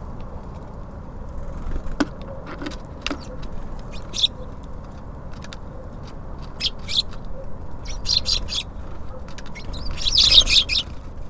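Small songbirds at a feeder chirping in short, scattered bursts, loudest in a longer flurry near the end. A few sharp taps come early on, over a steady low rumble.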